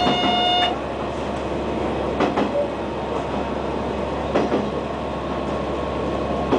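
KiHa 120 diesel railcar running along the line, a steady drone of engine and wheels on rail with a couple of sharp knocks from the track. A short steady tone sounds for under a second at the very start.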